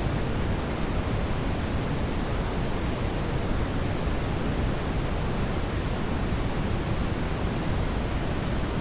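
Steady brown noise: an even, unchanging rush weighted toward the low end, with no other sounds.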